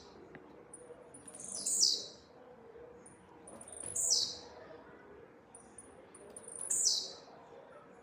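Blue-black grassquit (tiziu) singing its short song three times, about two and a half seconds apart: each a couple of quick high notes followed by a falling sweep.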